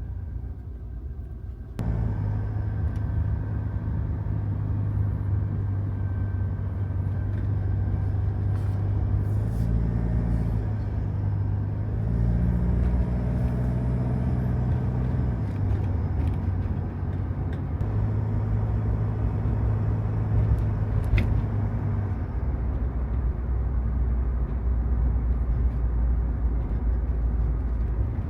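Toyota HiAce van engine running with a steady low hum. It steps up suddenly in level about two seconds in, and its pitch rises a little for several seconds around the middle.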